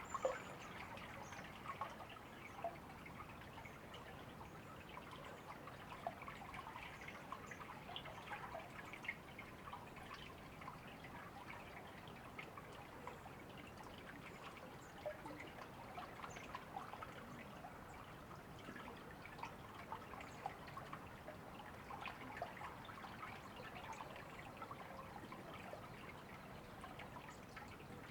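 A river or stream trickling steadily, a constant run of small splashes and drips.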